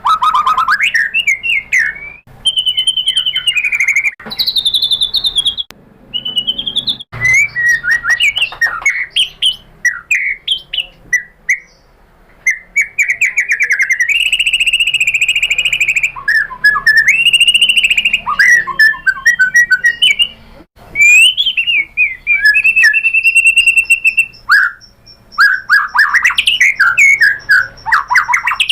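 White-rumped shama (murai batu) singing a long, varied song: clear whistled notes, sweeping slurs, fast trills and rapid rattling notes in quick succession, with only brief pauses between phrases.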